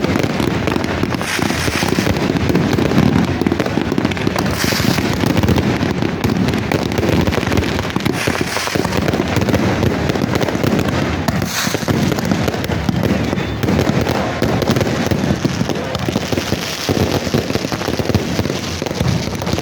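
Fireworks and firecrackers going off in a dense, continuous crackle, with a few brief, brighter hissing bursts standing out from it.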